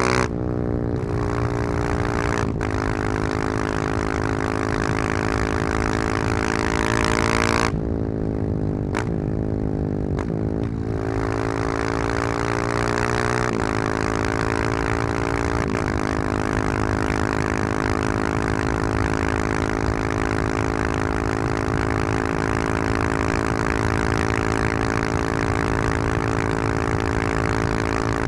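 Husqvarna 701's single-cylinder engine through a loud Wings aftermarket exhaust, under way. It shifts up several times, each shift a quick drop in pitch, and backs off the throttle briefly before the middle, then holds a steady cruise for the second half.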